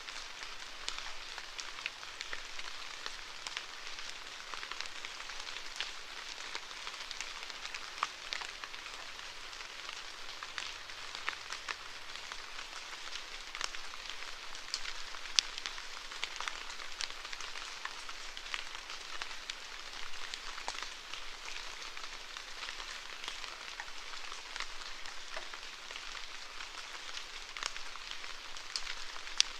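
Steady rain falling, a continuous hiss with many separate drops pattering sharply on a surface.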